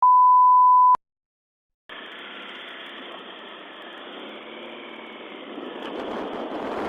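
A loud steady beep, one pitch, for about a second, then a second of silence. After that comes the steady engine and traffic hum of a police dashcam recording, thin and narrow in range, swelling a little near the end.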